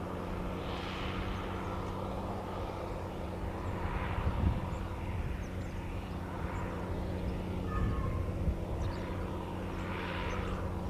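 Fendt 818 tractor's six-cylinder diesel engine running steadily under load while pulling a plough.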